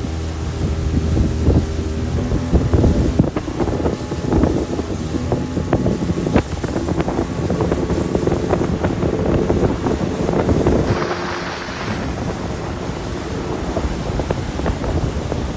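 Motorboat engine running on the water, with wind buffeting the microphone and water splashing.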